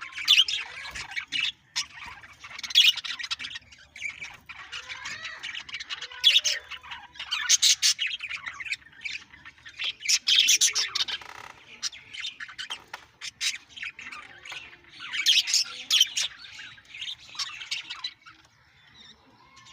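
Green and blue Australian parrots chattering and squawking in repeated bursts, with quieter chirps between them. The calls die down near the end.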